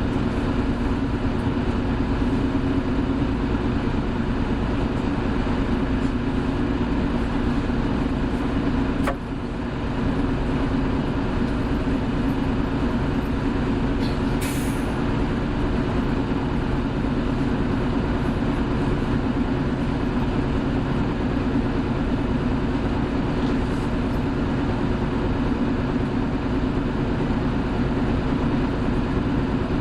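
Hino Blue Ribbon City Hybrid city bus under way, heard from inside: a steady engine and drivetrain drone. A click with a brief dip in level comes about nine seconds in, and a short hiss of air about fourteen seconds in.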